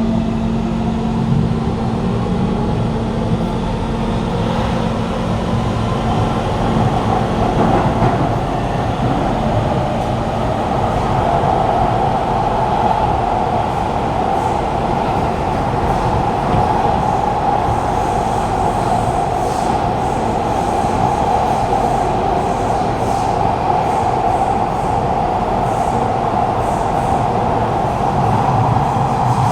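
Kawasaki Heavy Industries C151 metro train running through a tunnel, heard from inside the carriage: a steady roar of wheels on rail. A low steady hum drops away about eight seconds in.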